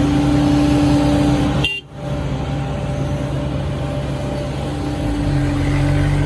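SANY SY135C excavator's diesel engine running steadily under load as it digs and swings. The sound cuts out briefly just under two seconds in.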